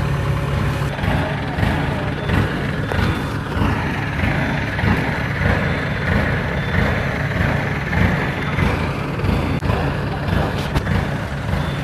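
The engine of a rice combine harvester running steadily, a constant low hum under a dense mechanical clatter that grows somewhat louder in the middle.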